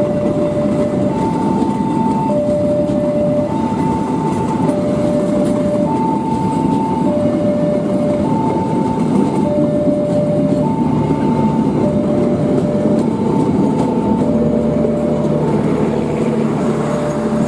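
Train running past with a loud steady rumble, while a two-tone electronic warning alarm alternates high and low about once a second. Near the end a low steady engine hum comes in.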